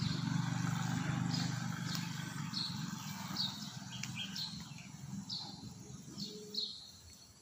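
A bird repeating a short, high, falling chirp again and again, a little more than one a second. Under it, a low engine hum from passing traffic is loudest at the start and fades away over the first three seconds.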